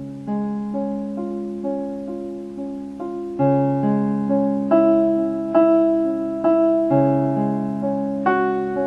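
Slow piano music: single notes picked out about twice a second over sustained lower notes, each note fading after it is struck, with the bass changing every few seconds.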